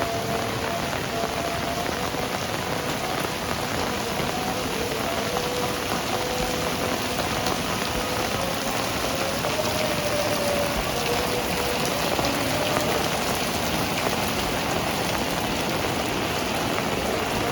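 Heavy rain falling steadily on surfaces, with a faint wavering hum underneath.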